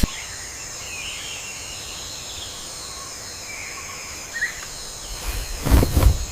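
Outdoor nature ambience: a steady high-pitched insect drone with scattered short bird chirps, then a couple of loud rough noises near the end.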